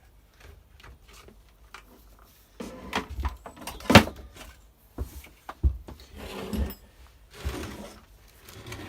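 Handling of a Stihl FS240 brush cutter's engine and shaft parts: scattered knocks and clatter, the sharpest about four seconds in.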